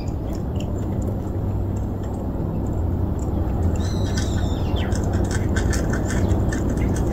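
A steady low outdoor rumble, with a bird's single whistled call about four seconds in, followed by a run of quick, light clicks.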